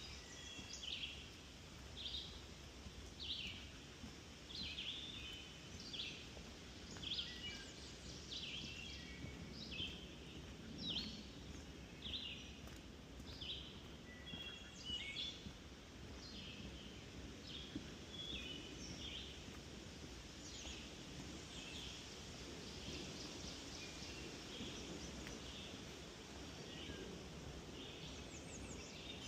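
Songbirds singing in a swamp forest: short, high chirped phrases repeated about once a second, clearer in the first half and fainter later, over a steady low background hush.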